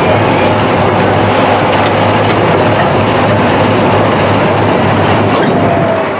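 Diesel super stock pulling tractor's turbocharged engine running loud and steady.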